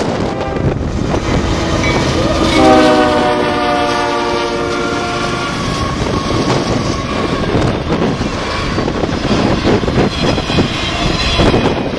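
Freight train led by CSX GE Evolution-series locomotives passing close by: one long horn blast starts about two and a half seconds in, sinking slightly in pitch as the locomotive goes past, over the rumble of the engines and wheels. After the horn stops, the intermodal well cars roll by with a steady rumble and wheel clatter.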